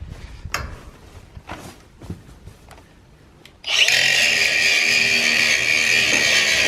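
A few scattered knocks, then about three and a half seconds in a power tool starts suddenly and runs loud and steady with a high, even pitch.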